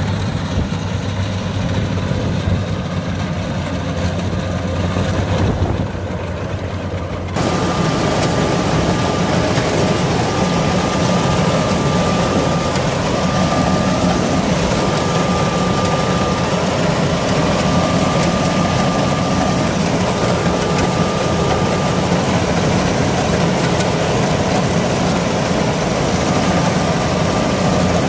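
Kubota combine harvester running steadily with its engine and harvesting machinery. About seven seconds in, the sound jumps suddenly to a louder, fuller noise with a steady high whine.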